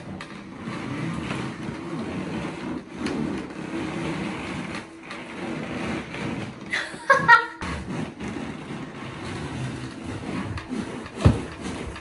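Latex balloon squeezed and rubbed under a person's weight on a wooden rocking chair, with a short squeak about seven seconds in and a thump near the end, over a steady low hum.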